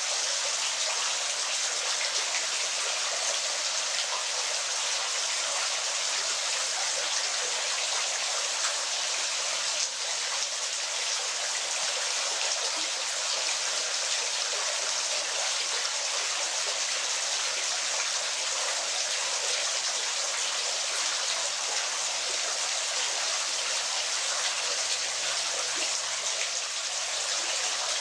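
A waterfall splashing steadily: an even hiss of falling water with almost no low rumble.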